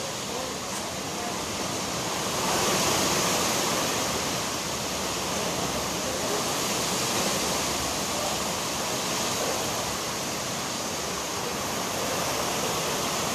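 Storm with strong wind and rain: a steady rushing noise that swells about two and a half seconds in and stays loud.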